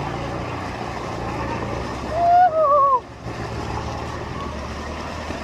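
Off-road 4x4 truck engine running steadily with a low hum. About two seconds in, a person lets out one loud wavering, falling yell, the loudest sound here.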